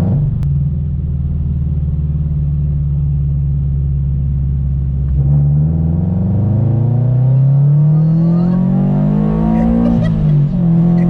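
Supercharged Subaru BRZ flat-four running through a catless header and single-exit catback exhaust: a steady drone while cruising, then about halfway through the engine revs up under hard acceleration, rising in pitch for about four seconds. Near the end the pitch drops suddenly at a gear change.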